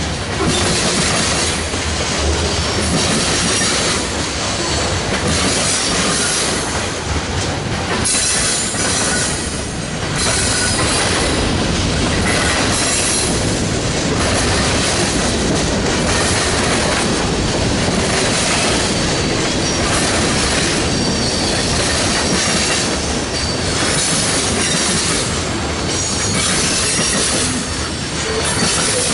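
Freight train cars rolling past, the wheels clattering over the rail joints in a rising and falling rhythm, with some high wheel squeal.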